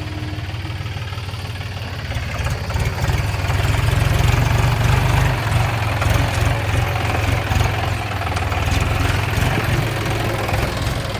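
Tractor diesel engine running steadily with a deep throb. It grows somewhat louder a few seconds in and then holds.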